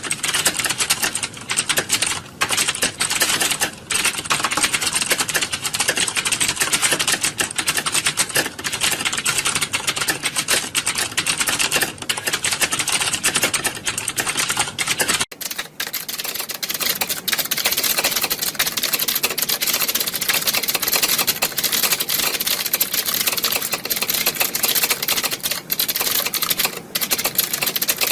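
Many computer keyboards being typed on at once: a dense, continuous clatter of keystrokes, as in a typing exam hall. About halfway through it cuts abruptly to a brighter-sounding stretch with less low rumble.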